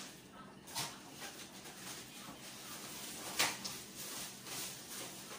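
Close-up eating sounds: a mouthful of instant noodle soup being chewed, with a few short, sharp mouth or spoon sounds. The loudest comes about three and a half seconds in.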